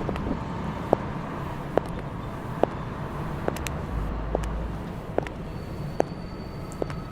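High-heeled shoes clicking in a steady walking rhythm, about one sharp step every second, over a low, steady rumble of city traffic.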